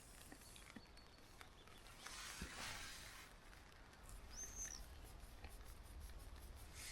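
Near silence: faint soft rustling with a few small ticks, and one short high chirp about two thirds of the way through.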